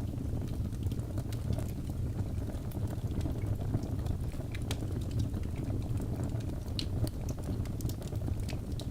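Birch logs burning in a fireplace: a steady low rumble of flames with many scattered sharp crackles and pops.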